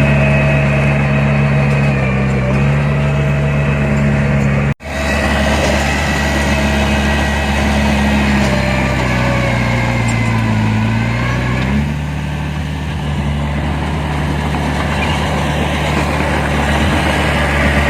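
Heavy diesel earthmoving machine engine running steadily under work. The sound cuts out for an instant about a quarter of the way in. Later the engine note sags for a couple of seconds, as if lugging under load, and picks back up.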